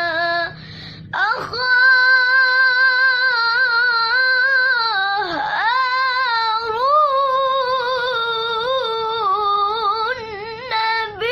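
A young boy's voice reciting the Quran in the melodic tajwid style. After a quick breath about a second in, he draws out one phrase in a long note with wavering, ornamented turns of pitch, leading into the word "Harun" near the end.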